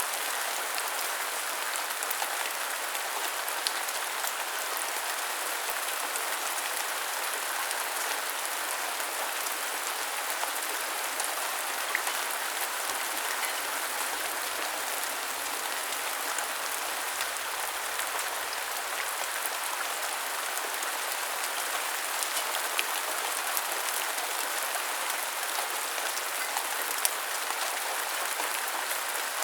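Steady rain falling, an even hiss with scattered sharper drop impacts throughout.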